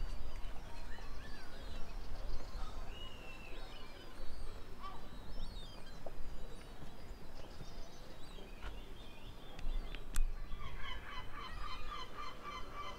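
Birds calling repeatedly, short calls that rise and fall in pitch, becoming a denser run of calls in the last couple of seconds. A single sharp click comes about ten seconds in.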